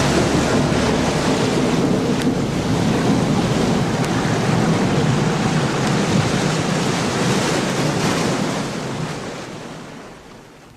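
Recorded ocean surf, a steady rush of breaking waves, fading out over the last few seconds.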